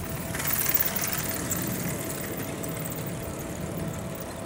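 Seibu 2000 series electric train approaching along the track: a steady low running rumble, with a burst of high-pitched hissing about half a second in that is the loudest part and fades over a second or so. A faint steady tone runs underneath.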